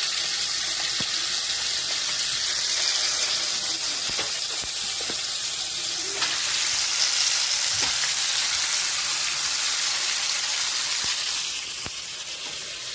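Seasoned chicken pieces sizzling in hot oil in a cooking pot as they are added one by one to brown. A few light clicks sound over the sizzle, which swells about six seconds in and eases off near the end.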